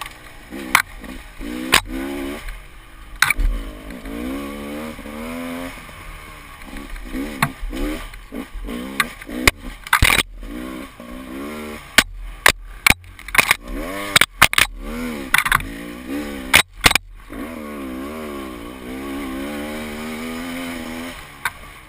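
Enduro dirt bike engine revving up and falling back again and again as it is ridden along a trail. Many sharp knocks and clacks come through between the revs.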